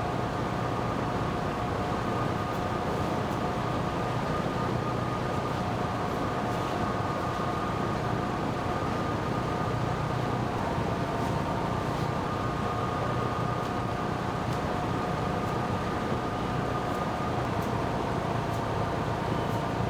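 A machine running steadily: an even rushing noise with a few steady whining tones that shift slightly in pitch about halfway through.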